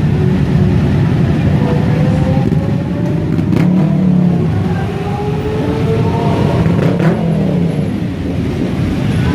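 Motorcycle engines running, their pitch rising and falling as they rev, over a steady low rumble.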